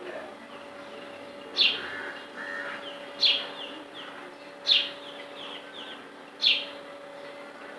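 A bird repeating a sharp call that falls in pitch, four times about one and a half seconds apart, some calls followed by a few shorter notes, over a faint steady hum.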